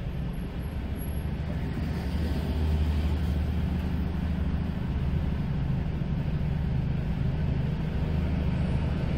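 Car engine idling with a steady low rumble, heard from inside the cabin while the car waits at a light, with other cars passing and swelling the sound a little now and then.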